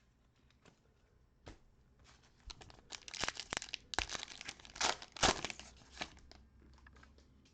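A trading card pack wrapper being torn open and crinkled, in a few sharp tearing and rustling strokes loudest in the middle seconds.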